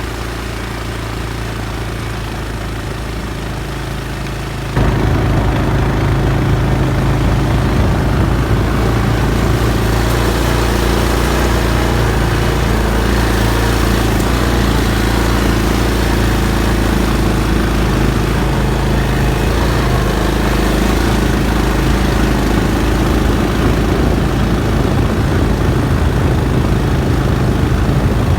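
Motor vehicle engine running steadily; about five seconds in the sound jumps suddenly louder and stays that way.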